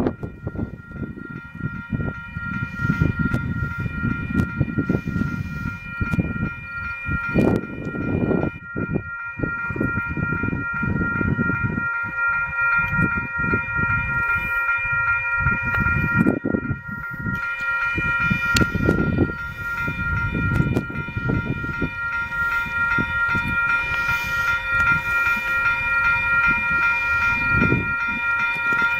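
Freight train passing at a grade crossing, its wheels rumbling and clacking unevenly over the rails, while the crossing bell rings steadily above it.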